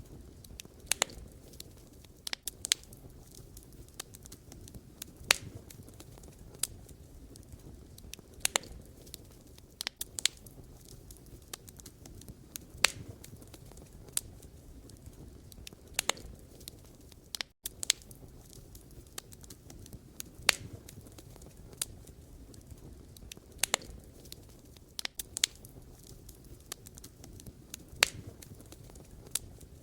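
Wood fire crackling: irregular sharp pops and snaps over a steady low rumble of burning firewood, with a split-second dropout about halfway through.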